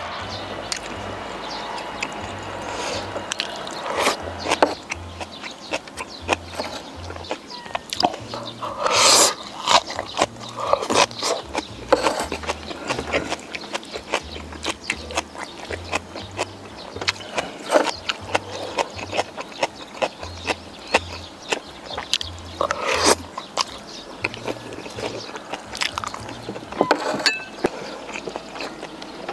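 Close-miked eating sounds: chewing with many short mouth clicks, and two louder bursts about nine and twenty-three seconds in, over soft background music with a steady low bassline.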